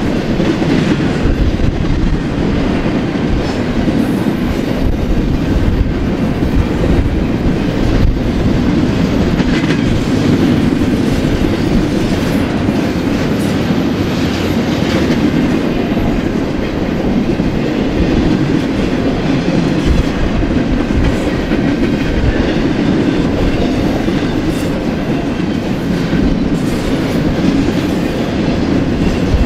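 Double-stack intermodal freight train's well cars rolling past on steel wheels: a steady, even rumble of wheels on rail with light scattered clatter.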